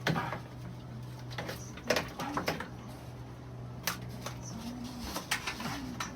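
Irregular clicks and knocks, several close together around two seconds in and again near the end, over a steady low hum.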